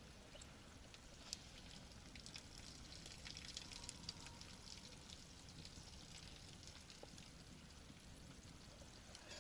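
Faint crackling of a wood campfire: many small, quick ticks and pops over a low hiss, with a couple of slightly sharper cracks.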